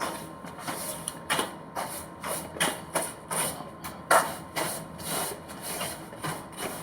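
Rhythmic scraping strokes, about two a second, each a short noisy scrape.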